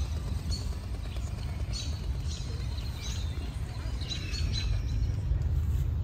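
A small bird chirping repeatedly in short, high notes over a steady low outdoor rumble.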